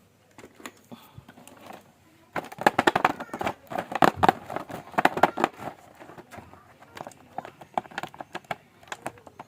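Plastic toy packaging being handled, a dense run of crinkles and clicks starting about two seconds in and thinning out after a few seconds.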